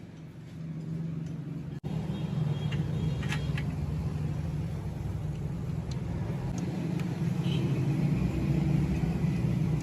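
An engine running with a steady low rumble. It is cut off for an instant about two seconds in, then grows gradually louder toward the end.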